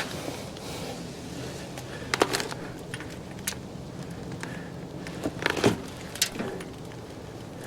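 A few separate knocks and rattles from a wheelbarrow being handled and moved into place, over a steady low hum.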